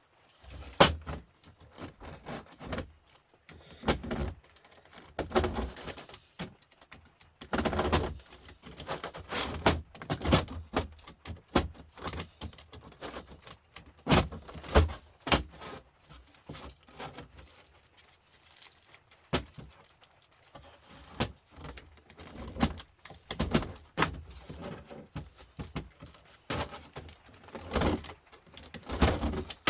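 Thin aluminium fins being bent and stripped off the copper pipes of a humidifier radiator coil: irregular metallic clinks, crunches and short scrapes.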